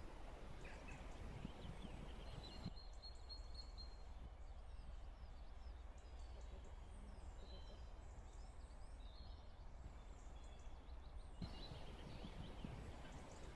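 Faint birdsong, scattered short chirps and whistles, over a low steady background rumble. The background noise drops away for several seconds in the middle, leaving the bird calls clearer.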